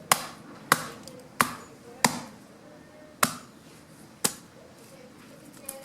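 Fallen branches being chopped by hand into wood chips: six sharp chopping strikes, the first four about two-thirds of a second apart, then two more with longer gaps, and a faint knock near the end.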